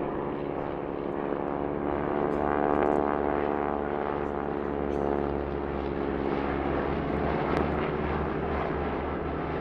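Vintage propeller aircraft and helicopters of the Historic Army Aircraft Flight, led by a de Havilland Beaver, flying past in formation. The engines run with a steady droning pitch that falls slightly as the formation passes, loudest about three seconds in.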